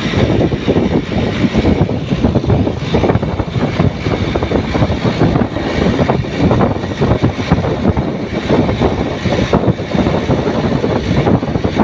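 Motorcycle riding at speed: a loud, steady rush of engine and wind noise, with the wind buffeting the microphone.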